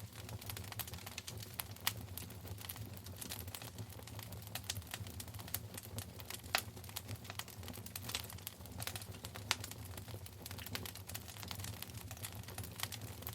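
Wood fire burning in a fireplace, crackling with a steady run of irregular sharp pops and snaps over a low steady rumble.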